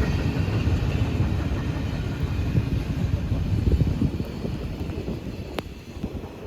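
Rumble of a passing train, fading away over the last couple of seconds, with a single sharp click near the end.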